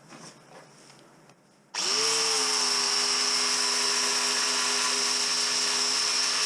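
A power tool fitted with a wire wheel switches on about two seconds in, spins up quickly and runs at a steady whine with a hiss over it.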